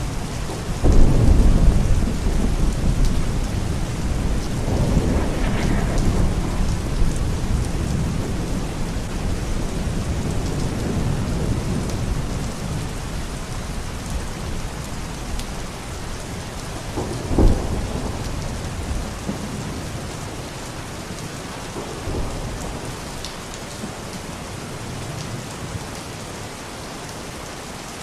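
Steady rain with rolling thunder: a heavy rumble about a second in, another around five seconds in, and a short, sharp clap about seventeen seconds in. The rumbling dies down toward the end, leaving the rain.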